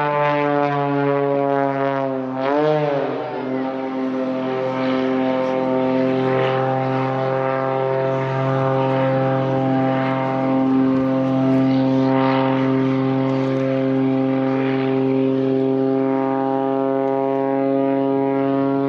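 Propeller aircraft engine droning steadily, with a brief rise and fall in pitch about three seconds in.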